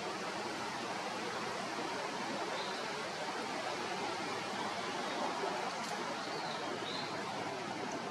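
Steady rushing of running water, with a few faint, short bird chirps now and then.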